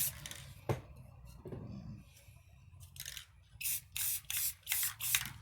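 Aerosol can of clear coat spraying in about five short bursts near the end, after a single sharp click about a second in. The clear is sprayed to re-wet spray paint that has begun to stick.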